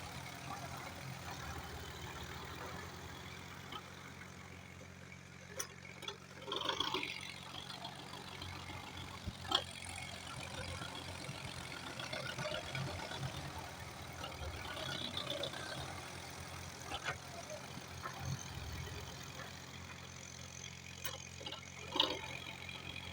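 Tractor diesel engine running steadily at an even, low speed, with a few short knocks or clanks along the way.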